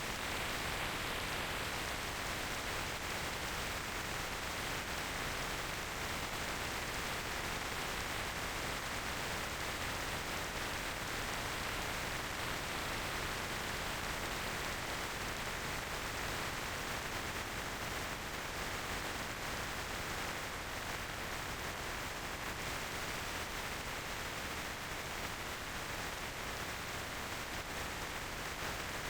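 Steady, even hiss of wind and road noise picked up by a motorcycle rider's microphone while riding, with no engine note or other distinct sound standing out.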